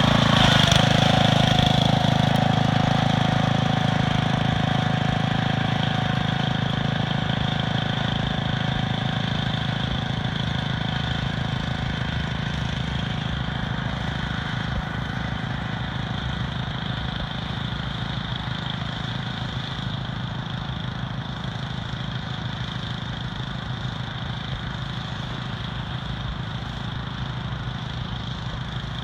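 Small engine of a Planet Jr walk-behind cultivating tractor running steadily, getting gradually quieter throughout.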